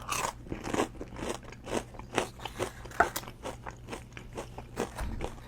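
Close-miked eating: crunchy bites and chewing of a roast beef sandwich, an irregular run of crisp crunches with one sharper crunch about halfway through.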